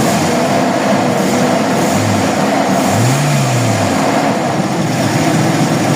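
Toyota Revo 1RZ four-cylinder petrol engine running steadily, with a brief rise and fall in pitch about halfway through.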